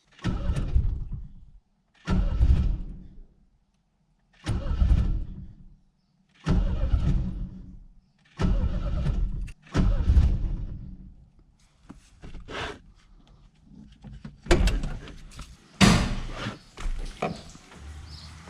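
A turbocharged Chevette's engine is cranked in about six short bursts, each about two seconds apart, and never catches: a hard cold start. Several sharp knocks and clatters follow near the end.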